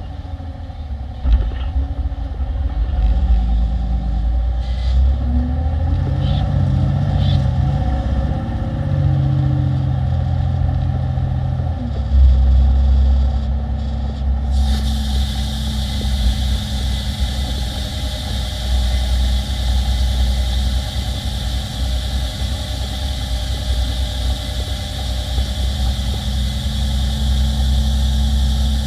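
Heavy diesel engine of a Peterbilt 348 plow truck running under way, its pitch rising and falling in the first half. A steady hiss starts suddenly about halfway and stays over the engine.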